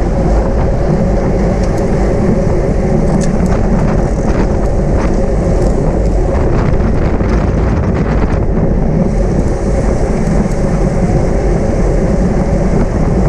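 Loud, steady wind rush over the microphone with low road and tyre rumble from a road bicycle ridden at race speed, with a few brief clicks a few seconds in.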